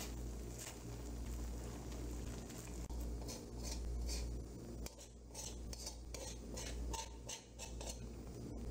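A spatula and a metal spoon scraping and stirring the bottom of a pan of foaming coconut milk as it cooks down. The scrapes come in a run of short strokes, about two or three a second, from about three seconds in, over a steady low hum.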